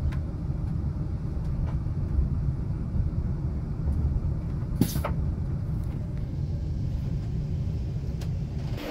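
Low, steady rumble of a passenger train heard from inside the carriage as it rolls slowly along the station platform, with one brief sharp noise about five seconds in.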